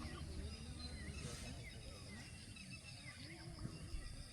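Outdoor ambience: small birds chirping over and over, over a low steady rumble.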